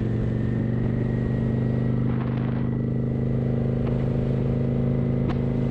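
Kawasaki motorcycle engine running at a steady speed, its note held level with no revving, as the bike cruises. A few faint ticks sound over it.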